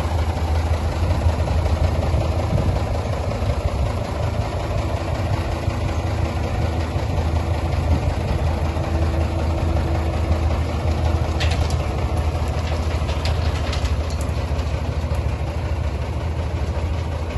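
MAN F2000 19.322 truck's diesel engine idling steadily, a constant low rumble. A few faint clicks come through about two-thirds of the way in.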